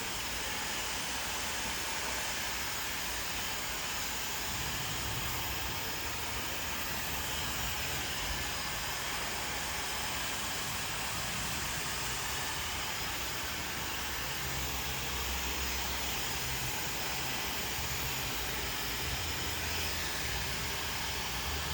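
Hair dryer running steadily: a constant, even rush of blowing air.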